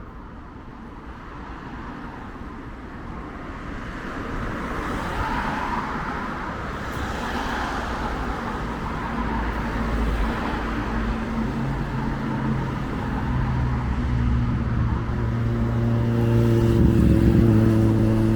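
A motor vehicle drawing near and getting steadily louder: road noise first, then a steady engine hum that grows from about halfway through.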